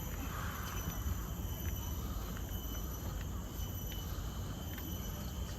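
Steady high-pitched insect chorus of crickets or similar insects, a constant drone over a low rumble, with a few faint ticks.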